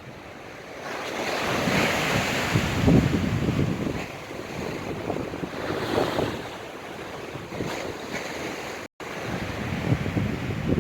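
Stormy sea surf breaking and washing on the shore in strong wind, with gusts buffeting the microphone. The wash swells up about a second in, peaks around three seconds, and surges again near six seconds; the sound cuts out for an instant near the end.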